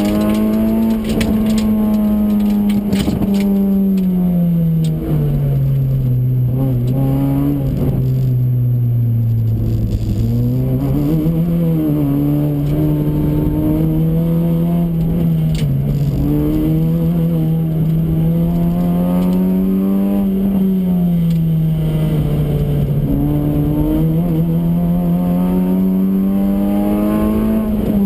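Honda Fit RS (GE8) four-cylinder engine heard from inside the cabin at full pace on a circuit, its note rising and falling again and again with the corners. The revs sink steadily to their lowest about ten seconds in, then climb sharply and swing between mid and high revs for the rest. A few sharp clicks come in the first few seconds.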